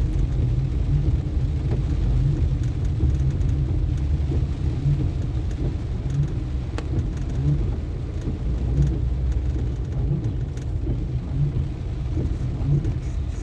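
Car driving on a rain-wet road: a steady low rumble of engine and tyres, with a few faint ticks.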